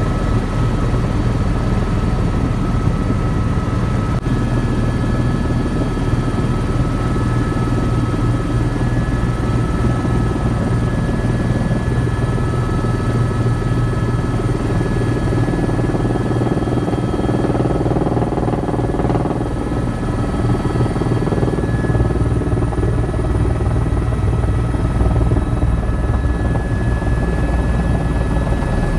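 Airbus EC130 EcoStar helicopter in flight: a steady heavy rotor drone with a high turbine whine over it, and a rush of noise swelling for a few seconds around the middle.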